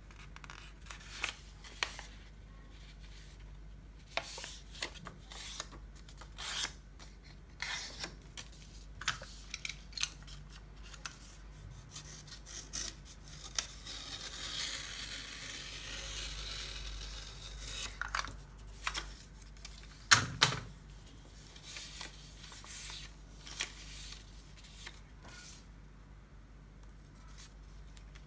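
Sheet of paper being handled, folded and creased by hand: a string of short crinkles and rustles, a longer rubbing stretch in the middle, and one sharper crackle about twenty seconds in.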